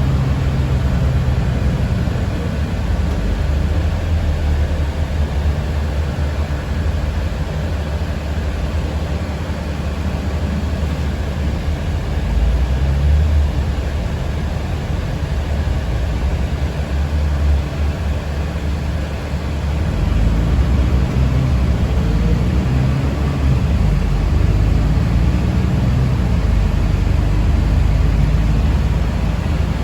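Steady rumble and road noise of a moving city public-transport vehicle, heard from inside the passenger cabin. It gets somewhat louder about two-thirds of the way through.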